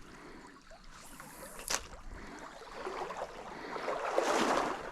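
Trout stream water running, with a sharp click about a second and a half in and a louder swell of water noise near the end.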